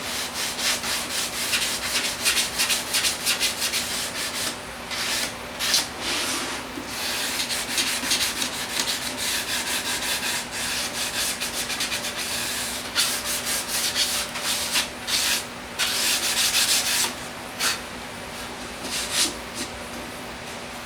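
Wood being hand-sanded with sandpaper: rapid, irregular back-and-forth rubbing strokes with short pauses.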